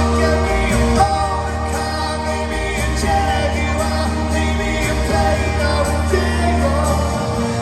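Live rock band playing a song in concert, with sustained bass notes under guitar and melodic lines.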